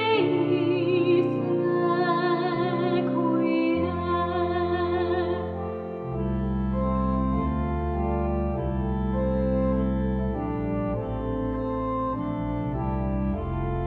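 A solo classical singer with wide vibrato over sustained organ chords. The voice drops out about five and a half seconds in, and the organ carries on alone with held chords and low bass notes.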